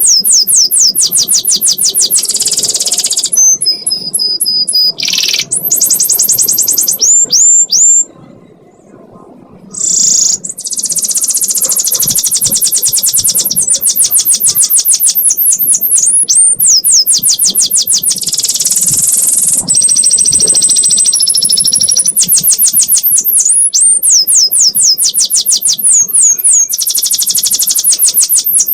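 Domestic canary singing long, very fast trills (ngekek) of high repeated notes mixed with sweeping whistles, pausing for about two seconds near the middle.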